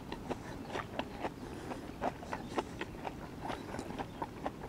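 A person chewing a mouthful of fish finger burger close to the microphone: irregular wet mouth clicks and smacks, several a second.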